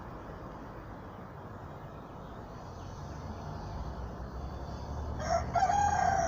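A rooster crowing once, starting about five seconds in, its call falling in pitch at the end, over a steady low background rumble.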